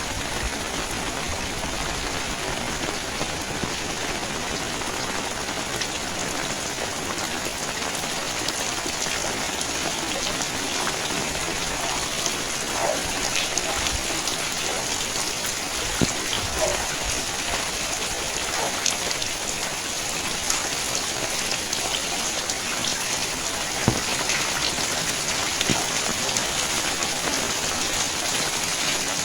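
Steady rain falling, with a dense hiss and scattered sharp drips and taps of drops landing close by.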